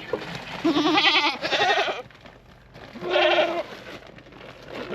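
Goats bleating: a couple of wavering calls in the first two seconds and another about three seconds in.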